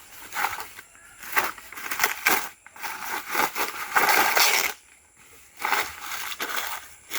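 Dry plantain leaves crackling and rustling as they are crushed and stuffed into a bee smoker, in irregular bursts with the loudest about four seconds in.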